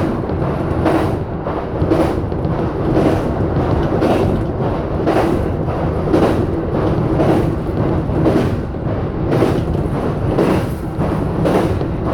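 E233-7000 series electric train running at speed: a steady rolling rumble, with a regular clatter about once a second as the wheels pass over rail joints.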